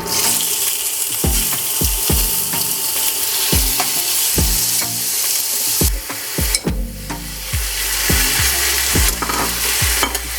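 Marinated pork stir-frying in a hot pan, giving a dense, steady sizzle, with background music and a regular beat underneath.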